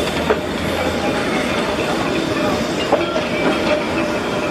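Narrow-gauge steam train's coaches and locomotive rolling along the track on a curve, wheels clattering steadily over the rail joints with faint squealing from the wheels.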